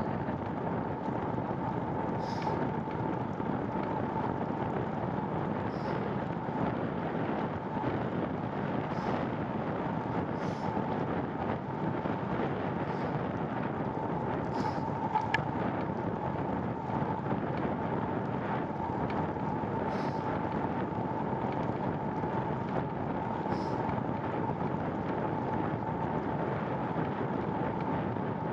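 Steady rushing wind and rolling noise from a moving bicycle, with a faint steady tone and a faint high tick every couple of seconds.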